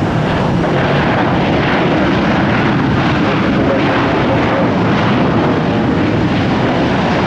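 Airliner engine noise at an airport, loud and steady throughout.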